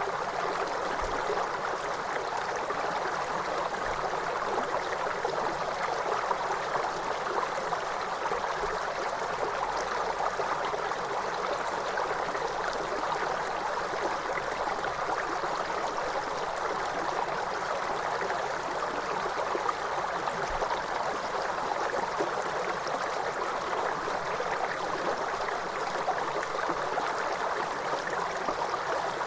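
Waterfall: a steady, even rush of falling water that keeps on without change.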